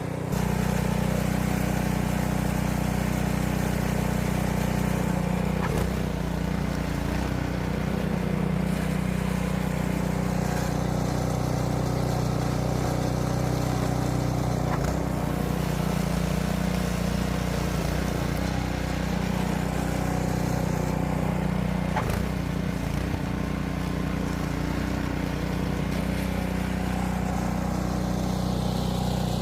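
An engine running steadily at a constant speed, with a few faint clicks or knocks over it.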